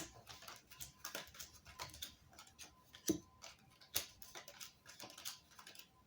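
Playing cards being handled and laid out on a table for a fortune-telling spread: irregular soft clicks and taps, a few a second.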